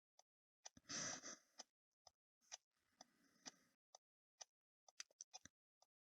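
Very faint beat of electronic dance music leaking from headphones, a soft regular tick about twice a second, with two brief rustles in the first few seconds.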